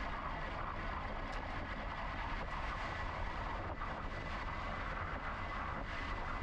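Steady wind and rolling noise from a GoCycle GX electric bike riding along, with low rumble and a faint steady high whine running through it.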